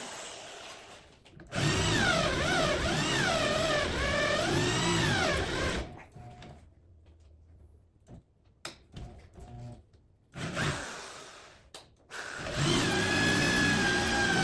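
Power tool running in two bursts, cutting out an old leaf spring bushing, its pitch rising and dipping as it loads up in the cut. Between the bursts there are a few light clicks and knocks.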